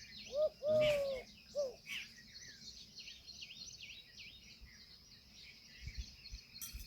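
Birds calling: a few short, arched calls in the first two seconds, the loudest about a second in, over a steady chatter of quick high chirps.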